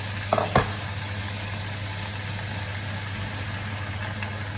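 A steady low machine-like hum under an even hiss, with two quick knocks about half a second in.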